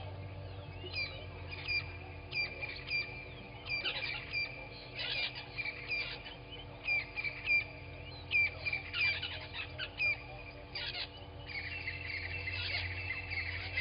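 Birds calling at dawn: many short, sharp chirps repeated over and over, thickening into a denser continuous chatter near the end, over a steady low electrical hum.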